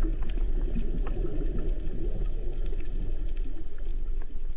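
Large hailstones pelting down: many irregular hard hits over a constant low rumble.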